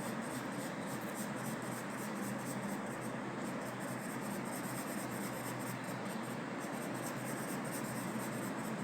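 Graphite pencil shading on paper: a steady scratchy rasp of rapid back-and-forth strokes laying in tone on the drawing's background.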